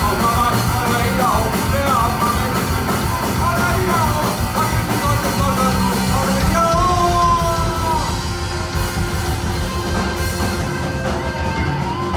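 Punk rock band playing live: loud, dense band sound with shouted singing over it, the vocals thinning out about two-thirds of the way through.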